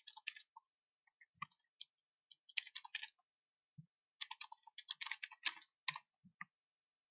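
Computer keyboard typing in short runs of quick keystrokes, with a few single clicks between them.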